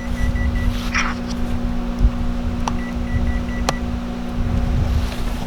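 Microwave oven running with a steady low hum. A faint pulsed high tone comes twice, at the start and around the middle, and there are a few sharp clicks.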